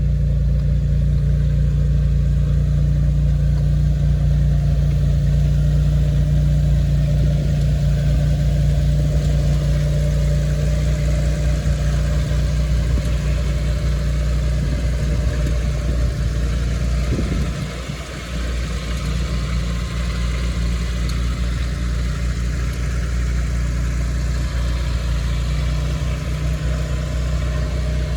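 1954 Jaguar XK 140's 3.4-litre twin-cam straight-six engine idling steadily, with a brief dip in loudness about eighteen seconds in.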